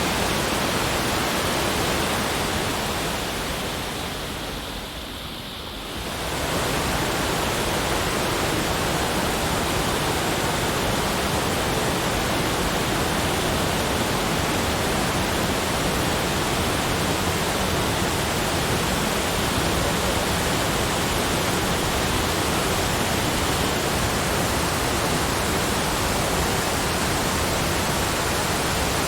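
Steady, even rushing noise from a nature-sound ambience, dipping briefly and swelling back up about four to six seconds in.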